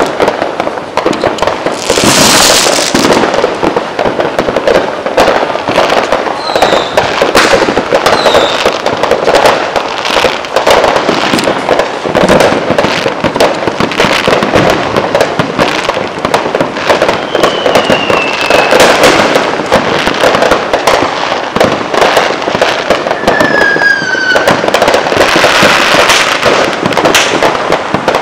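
Many Fourth of July fireworks going off at once: a continuous run of bangs and crackling from rockets and aerial shells, with a hissing rush about two seconds in and again near the end. Several short whistles falling in pitch come through the barrage.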